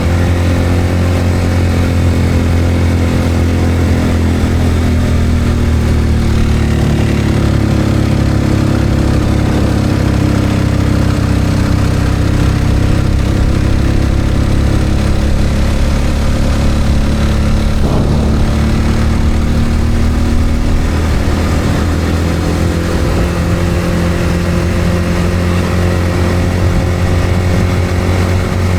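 A vehicle engine running steadily, heard from on board while under way. Its pitch drops slowly, then climbs again as the speed changes, over a constant low rumble.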